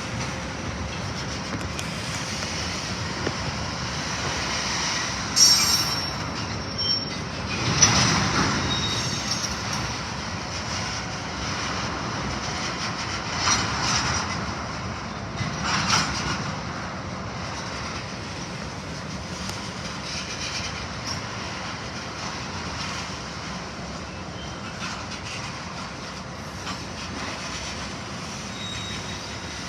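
A train's railroad cars rolling slowly on the track with a steady rumble. Wheels squeal, and there are several sharp clanks in the first sixteen seconds, after which the rumble settles.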